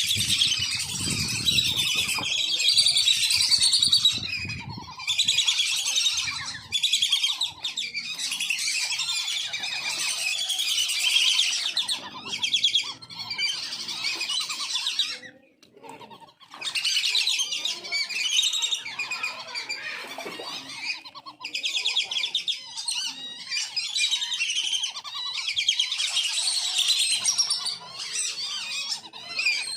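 A flock of wandering whistling ducks calling almost without a break, many high whistled calls overlapping, with a short pause about sixteen seconds in.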